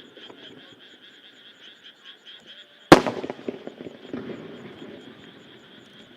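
A single aerial firework shell bursts with a sharp bang about three seconds in, and its rumble and crackle echo for about two seconds. Under it runs a steady, evenly pulsing chorus of frogs.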